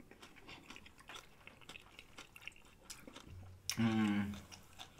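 Close-miked chewing, with faint wet smacks and clicks of a mouth working food. About four seconds in, a short hummed voice sound, louder than the chewing.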